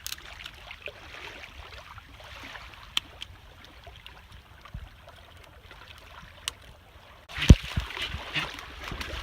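Small waves lapping and trickling at the water's edge of a sandy beach, with a few faint clicks. About seven seconds in, a louder rush of water and wind comes in with a couple of low thumps.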